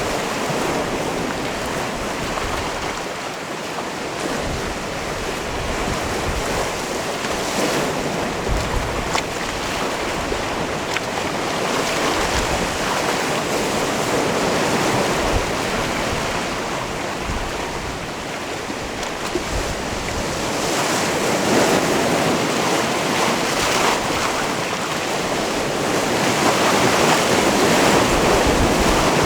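Sea waves washing onto a rocky shore, a continuous surf wash that swells louder about two-thirds of the way through and again near the end.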